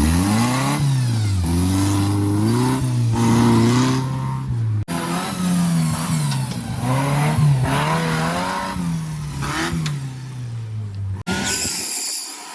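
Off-road 4x4 vehicle's engine revving up and down over and over, its pitch rising and falling every second or so, with a brief sudden break about five seconds in. The engine sound drops away shortly before the end.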